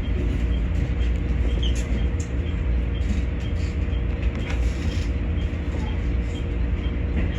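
Railcar running, heard on board: a steady low rumble with a faint high pip about twice a second.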